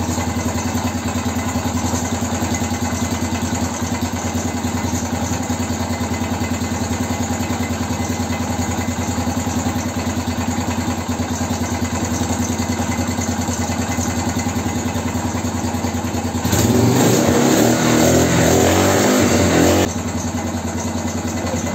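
A BM Motard 250 motorcycle's single-cylinder engine running on the stand, with a knock that appeared after the engine rebuild. It runs louder for about three seconds near the end.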